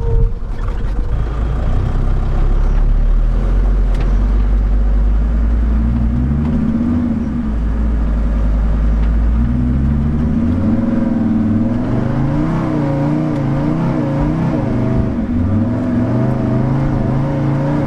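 Mercedes T1 van's engine running under heavy load with a deep rumble, then revving up and down repeatedly from about halfway through as the van tries to pull away on snow with one drive wheel spinning.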